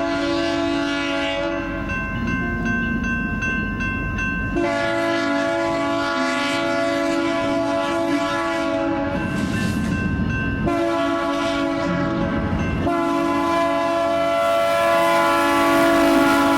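Diesel freight locomotive's air horn sounding long sustained blasts, with short changes between blasts, over the rumble of the passing train.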